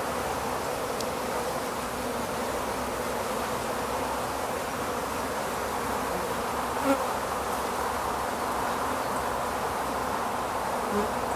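Honeybees buzzing steadily around an open hive during an inspection, the even hum of a fairly calm colony. A single brief tap comes about seven seconds in.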